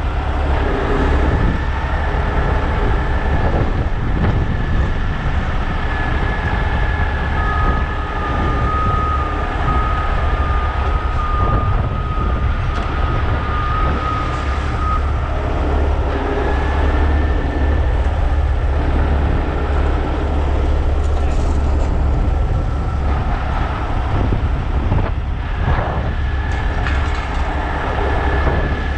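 Heavy diesel machinery running steadily with a deep, even rumble. A thin high whine sits over it, strongest for several seconds a little after the start.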